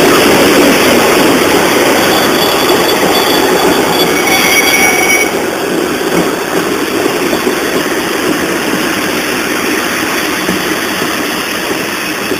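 TLK passenger train running on the track with a steady rumble that slowly gets quieter, as if slowing. A faint high squeal of wheels on rail sounds from about two seconds in and stops abruptly about five seconds in.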